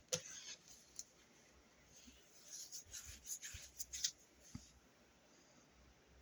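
Faint scraping and rubbing as epoxy is spread around the rim of a speaker basket, in short strokes with a couple of light clicks.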